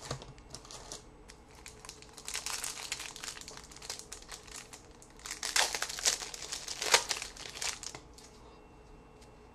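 Wrapper of a trading-card pack crinkling as it is torn open and handled, in uneven spells that are loudest just past the middle and die down near the end.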